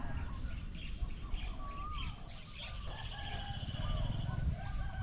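Several small wild birds chirping and whistling in short, scattered calls, with a fast trill about three seconds in, over a steady low rumble.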